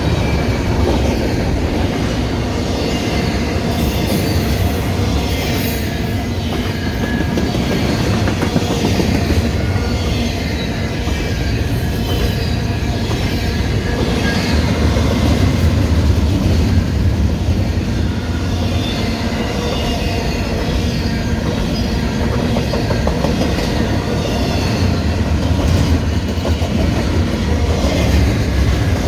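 Canadian Pacific intermodal freight cars rolling past, a steady rumble of steel wheels on rail with clicking over the rail joints and a faint high wheel squeal.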